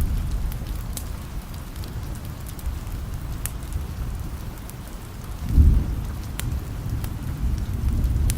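Steady rain with low rolling thunder: a roll fades out early and another swells up about five and a half seconds in. A few sharp crackles are scattered through it.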